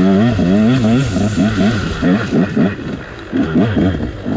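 KTM dirt bike engine under rapidly changing throttle, its revs rising and falling in quick swings a few times a second.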